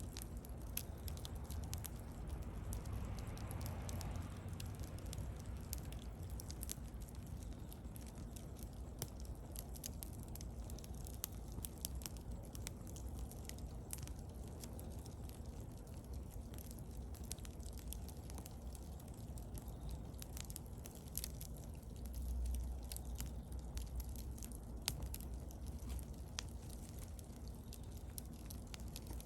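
Wood fire burning, with a steady low rumble and scattered sharp crackles and pops from the wood; the low rumble swells briefly about two-thirds of the way through.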